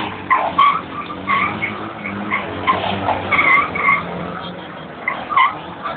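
A motorcycle engine running during a stunt exhibition, with repeated short tyre squeals and chirps over it.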